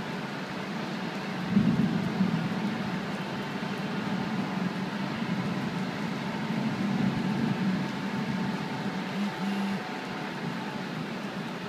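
Steady city traffic hum, with a brief louder swell about a second and a half in.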